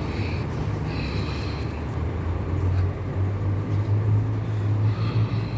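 Scania K440 coach's diesel engine idling with a steady low hum, growing a little louder about three seconds in.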